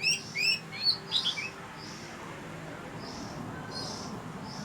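Oriental magpie-robin singing: a quick phrase of loud, clear whistled notes that sweep up and down, lasting about a second and a half at the start.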